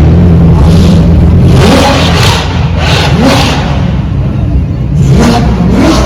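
A high-performance car engine revving loudly, again and again, as a car pulls out.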